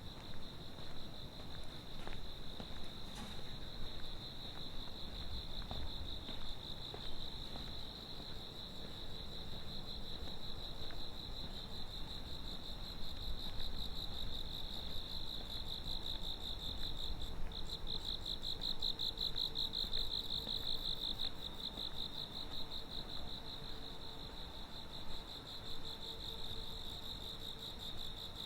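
Night insects, crickets, singing in a steady high trill that swells louder and more pulsing for a few seconds about two-thirds of the way in.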